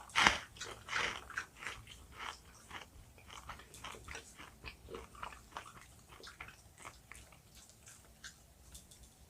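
Close-up biting and chewing of jelly candy. A loud bite comes just after the start, followed by a run of short chewing clicks, two or three a second, which grow fainter.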